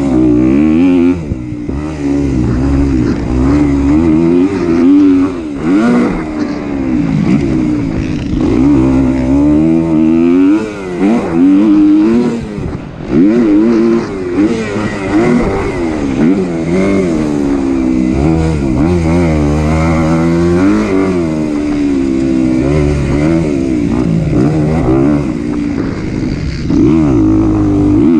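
Kawasaki KX250 four-stroke single-cylinder motocross bike being ridden hard, its engine pitch climbing and dropping over and over as the throttle is opened and chopped, with short dips between pulls.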